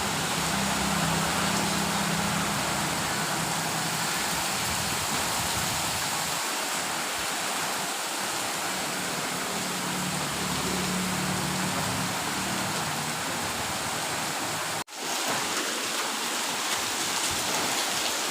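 Hail and heavy rain pelting down in strong wind, a steady dense hiss. It drops out for an instant about fifteen seconds in, then carries on.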